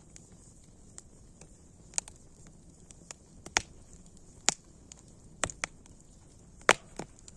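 Wood fire crackling: irregular sharp pops and snaps over a faint steady hiss, the loudest snap near the end.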